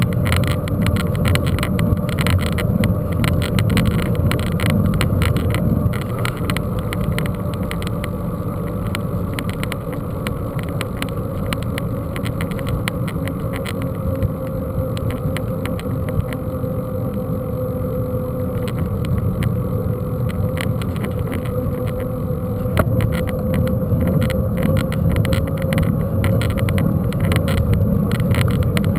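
Mountain bike being ridden over rough ground: a steady rumble with constant rattling clicks, and a faint steady whine running underneath.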